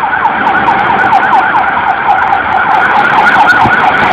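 Emergency vehicle siren sounding a rapid yelp, a fast repeated up-and-down wail of several cycles a second, growing slightly louder as it approaches.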